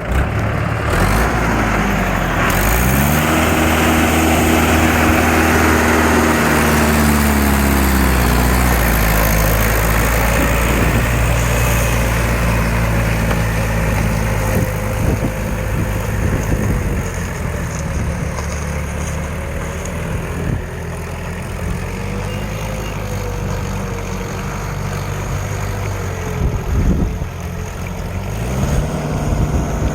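Trakstar 545 tractor's diesel engine running under load while ploughing, revving up about two seconds in, holding steady, easing off after several seconds, then revving up again near the end.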